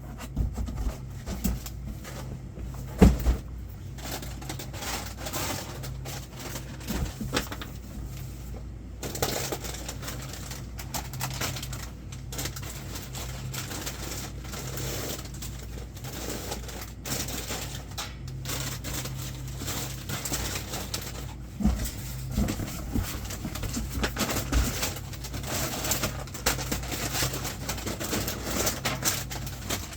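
Goods being handled while a convenience store delivery is sorted: irregular clicks, taps, rustles and knocks of boxes and packaged items, with a sharp knock about three seconds in and a few thumps later on, over a steady low hum.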